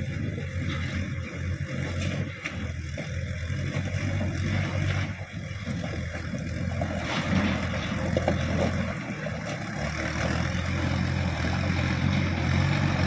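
Truck engine running with a steady low drone and rough mechanical noise, getting louder over the last few seconds.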